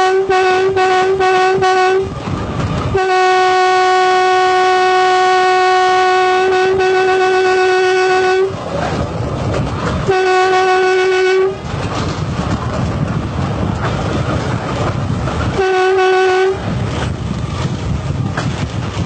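Train horn sounding one steady note: a quick string of short toots, then a long blast of about five seconds, then two shorter blasts. A low rumble of the train running fills the gaps between blasts.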